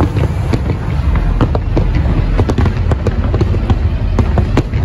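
Aerial fireworks bursting in quick succession: many sharp cracks over a continuous deep rumble.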